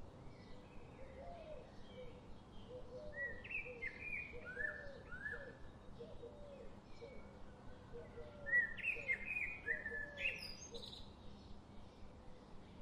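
Wild birds singing and chirping in a forest, with two runs of louder, clear falling whistled notes, the second the loudest, over a lower repeated call and quieter chirps all through.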